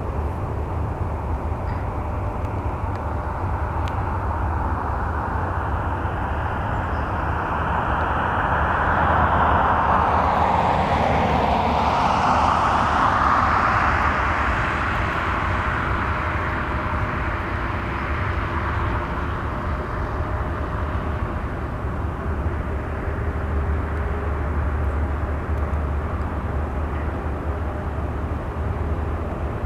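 Jet airliner engines, swelling to a peak about ten seconds in and then fading, with a sweep in pitch as the aircraft passes, over a steady low rumble.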